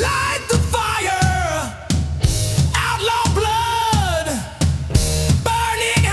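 Heavy rock music with a pounding drum kit and a sung vocal line whose notes swoop up and fall away.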